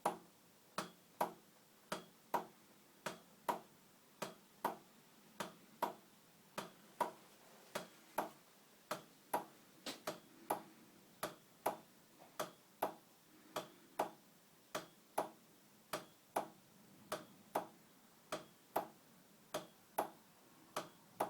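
Heinrici 55mm hot air engine running slowly, with a sharp knock that comes in close pairs, a pair a little more than once a second.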